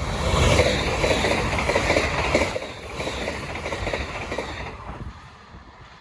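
Passing train's wheels clattering over rail joints in a quick run of knocks over a rumble, loudest in the first couple of seconds, then fading away.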